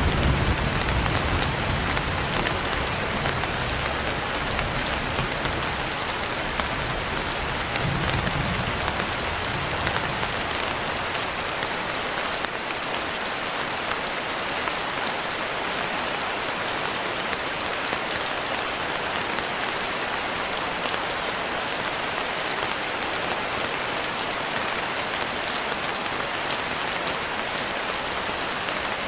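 Steady, heavy rain falling, a dense even patter. A low rumble of thunder rolls under it at the start and fades away in the first third.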